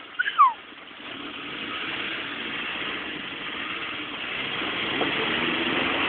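Suzuki SJ413's four-cylinder petrol engine revving and held under load as the stuck truck tries to drive out, building up after about a second. A brief high squeal falling in pitch sounds just before it.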